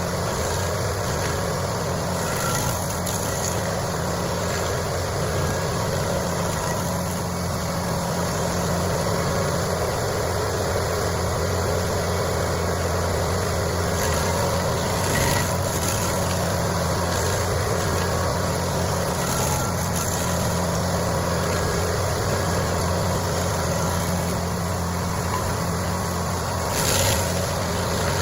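Heavy machine's engine running steadily at a constant pitch, with a brief louder moment about halfway through and another near the end.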